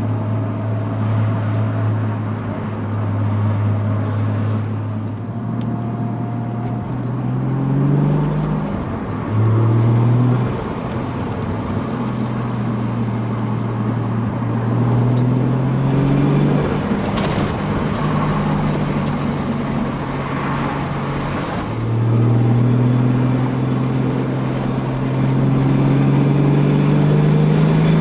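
Toyota Supra Mk3's 7M-GTE 3.0-litre turbocharged inline-six under way, with an HKS catback exhaust: the engine note climbs in pitch as it pulls through the revs several times, drops back at each shift, and holds steady between pulls.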